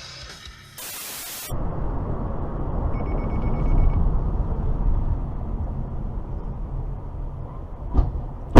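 A short burst of loud hiss about a second in, then the steady low rumble of a car driving on the road. A brief run of rapid electronic beeps comes about three seconds in.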